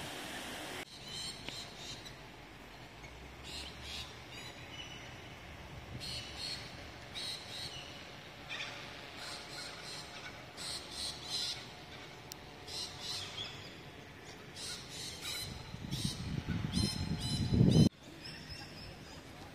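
Birds calling, with many short high chirps and calls one after another. Near the end a loud low rumble builds and then cuts off suddenly.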